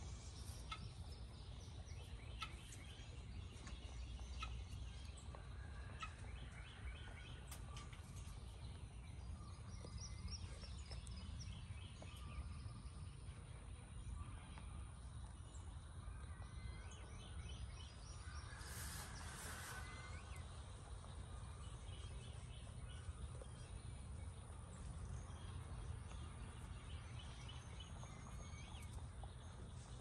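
Faint bird calls, short and scattered, over a steady low rumble, with one louder, noisier burst about two-thirds of the way through.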